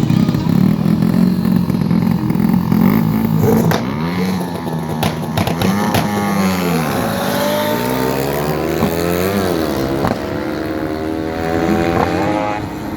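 Motorcycle engines at high revs, a steady drone at first, then engine notes sweeping up and down as machines pass and climbing repeatedly in pitch as they accelerate through the gears.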